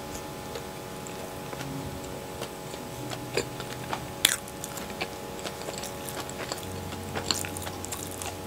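Close-miked chewing of a mouthful of soft cheese bread, with wet mouth clicks and smacks scattered throughout. The sharpest click comes about four seconds in, and a faint steady hum runs underneath.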